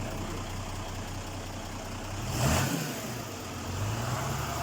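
Crane truck's engine running steadily, with a short loud rush of noise about halfway through and the engine revving up soon after.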